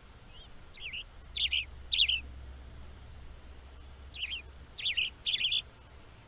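Western tanager song: short chirped phrases in two groups of about three, the second group starting about four seconds in after a short pause.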